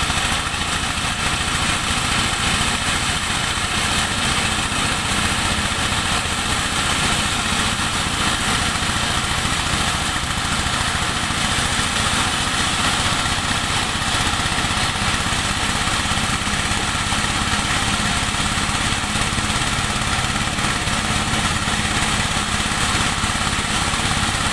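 Engine of a motorised corn sheller running steadily, a continuous even machine noise.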